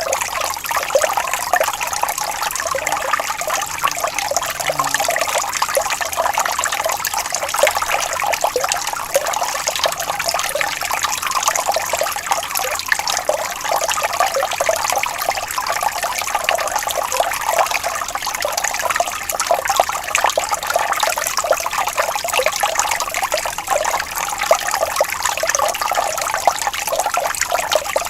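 Gently flowing water, a steady trickle with fine, constant splashing detail and little low rumble.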